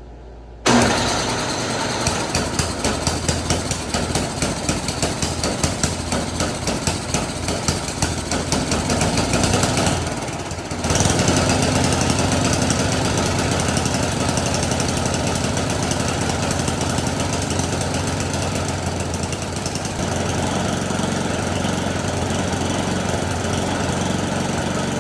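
Snowblower's small gasoline engine starts about a second in and runs, pulsing unevenly at first. After a brief dip around ten seconds in, it settles into a steady run. The no-start is cured by the freshly cleaned carburetor.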